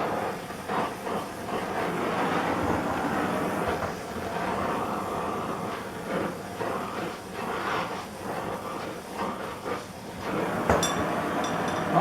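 Gas torch flame running with a steady rushing hiss, heating a steel drill press sleeve to expand it for a shrink fit. A sharp metallic click comes about eleven seconds in.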